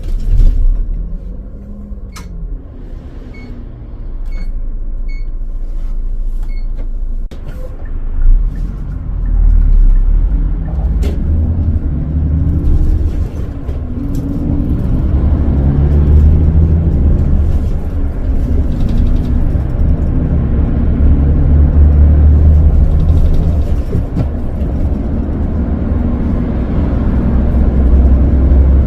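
Hyundai Universe Prime coach's CNG engine starting and idling with a low rumble, with a few short electronic beeps a few seconds in. From about eight seconds in the bus pulls away, the engine pitch rising and dropping through the gear changes.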